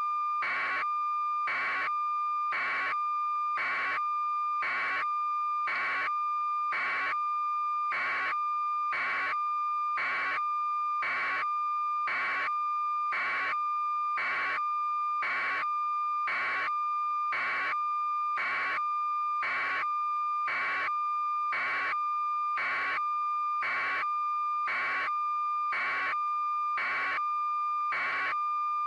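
A steady electronic tone with a regular beep repeating about one and a half times a second, the same from beat to beat.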